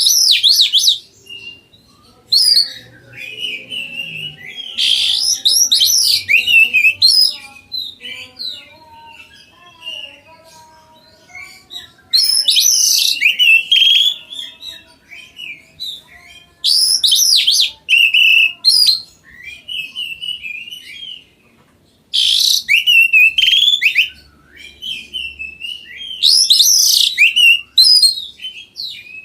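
A songbird singing loud, fast, varied phrases of about two seconds each, roughly every four to five seconds, with softer chirps and calls between the phrases.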